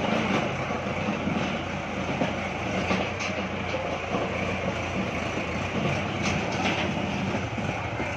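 Kubota tractor engine running steadily while it works, with a few clanks about three seconds and six and a half seconds in.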